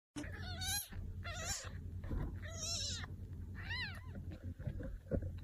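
A cat meowing, about four short wavering calls roughly a second apart, over a faint low hum.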